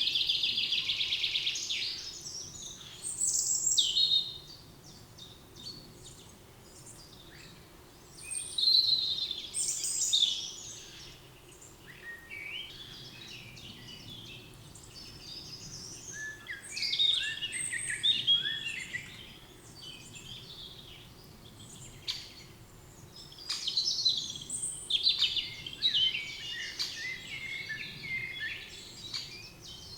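Songbirds singing in a forest. A fast trill opens, followed by a string of varied chirping and warbling phrases from several birds with short pauses between.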